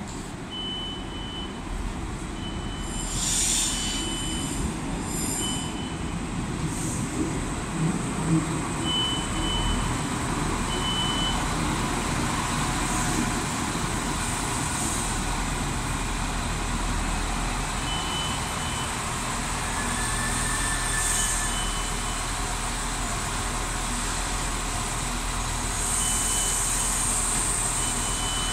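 Irish Rail InterCity diesel railcar running at the platform, with a steady low engine hum and several short bursts of hissing air. Runs of short, high, single-pitch beeps sound at intervals throughout.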